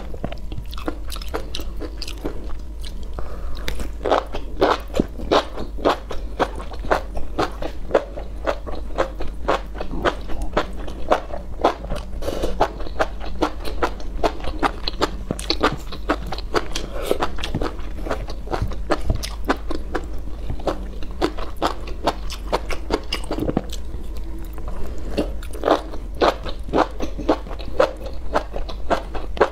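Close-miked chewing of a mouthful of enoki mushrooms in chili oil: a dense run of wet smacks and crunchy clicks, several a second, with no pause.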